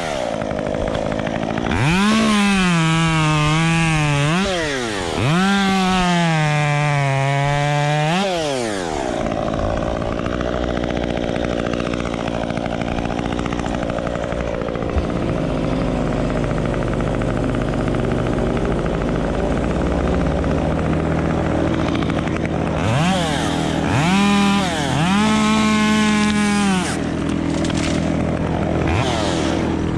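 Gas chainsaw at full throttle cutting wood, its pitch sagging under load and recovering, in two long cuts in the first third. After that a lower, steady engine note runs on, and the saw is revved twice more, briefly, about three quarters of the way through.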